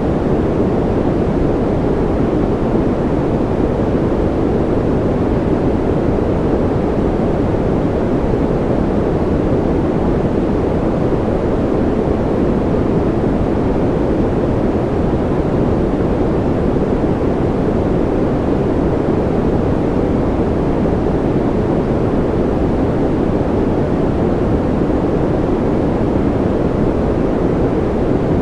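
Steady white noise for soothing a baby to sleep: an even, unbroken hiss weighted toward the deep end, so it sounds more like a low rushing than a bright hiss, and it never changes.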